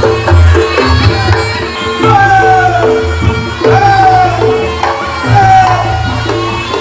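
Reog Ponorogo gamelan music: kendang hand drums and gongs keep a steady beat while a slompret shawm plays a melody that slides down in pitch several times.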